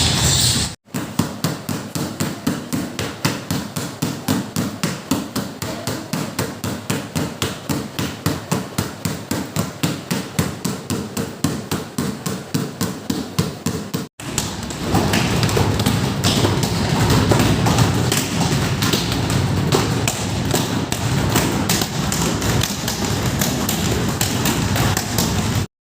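Rhythmic thuds, about three a second, from feet striking the ground in a running-in-place training drill. After a cut about 14 s in, the thumping becomes denser and less regular.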